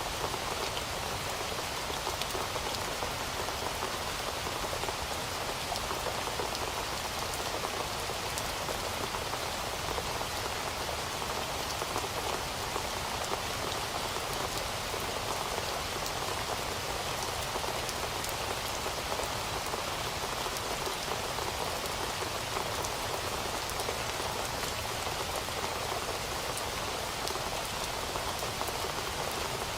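Heavy rain falling steadily on a surface, a dense even hiss with fine drop ticks throughout.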